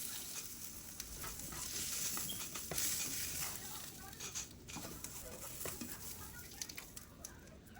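Food sizzling in a hot pan, with light clicks and scrapes of a cooking utensil; the sizzle slowly fades.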